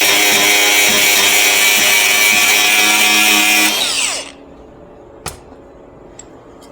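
High-speed power tool running with a loud, steady high-pitched whine, then let off about four seconds in so its pitch falls as it spins down. A single sharp click follows about a second later.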